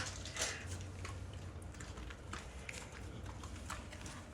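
Rottweiler puppies scuffling as they play-fight: faint scattered taps, rustles and mouthing sounds over a low steady hum.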